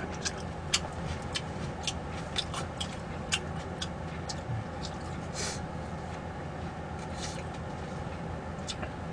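Close-up mouth sounds of someone chewing meat: a run of small wet clicks and smacks for the first few seconds, thinning out later, with a couple of short breathy hisses.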